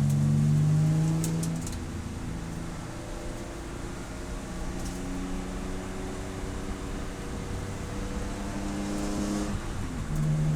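Race car engine running under way. It is loud at first, drops off suddenly about a second and a half in, and runs quieter through the middle. Near the end it climbs in pitch and comes back up loud.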